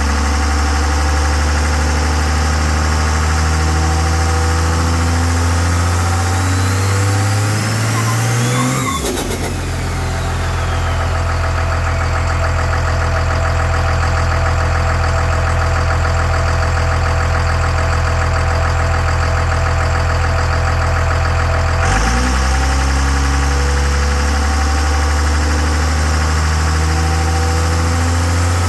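12-valve Cummins 5.9 L inline-six turbo diesel running through a custom exhaust. Its pitch climbs slowly, shifts abruptly about nine seconds in and holds steady, then drops suddenly near the 22-second mark and climbs again.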